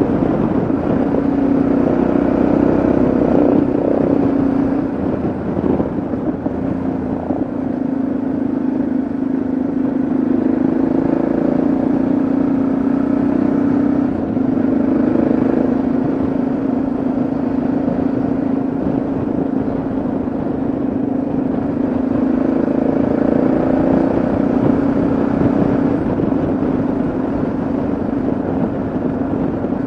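Yamaha XT660Z Ténéré's single-cylinder engine running steadily at cruising speed on the road. Its pitch rises and falls a little, with a brief dip about fourteen seconds in.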